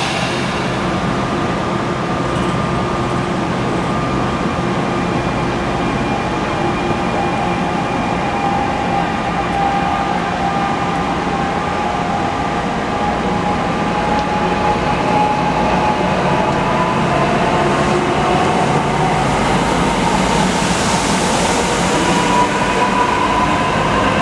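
NJ Transit Arrow III electric multiple-unit train pulling out of the station. The wheels on the rails make a steady rumble, and an electric motor whine over it climbs in pitch as the train gathers speed near the end.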